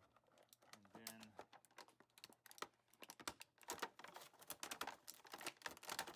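Plastic packaging crinkling and clicking as miniature pieces are handled and unpacked, in many quick small clicks that grow busier and louder after about three and a half seconds.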